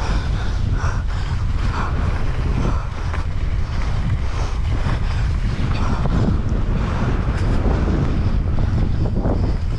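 Strong wind buffeting the microphone, a loud steady low rumble, with scattered rattles and knocks mixed in from a mountain bike riding down a trail.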